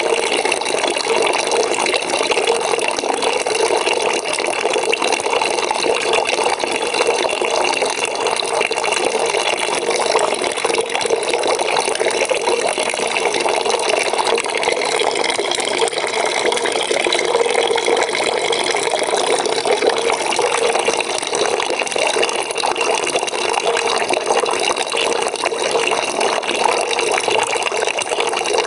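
Water pouring steadily into a bucket from a tap, a constant splashing rush.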